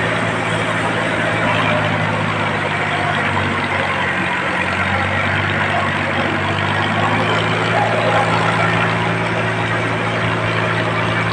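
Tractor diesel engine running steadily, its pitch dipping briefly about four seconds in before settling back.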